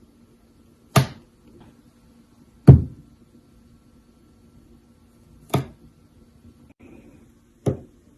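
Four sharp knocks, irregularly spaced about one to three seconds apart, each dying away quickly, over a faint steady hum.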